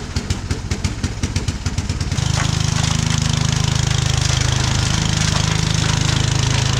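Walk-behind snowblower's small gas engine running, its firing pulse quickening over the first two seconds, then held at a steady high speed with a rushing noise above it as the blower works the snow.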